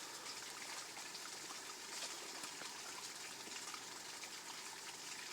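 Water running steadily over a small waterfall in a paddy-field stream, an even rush of flowing water.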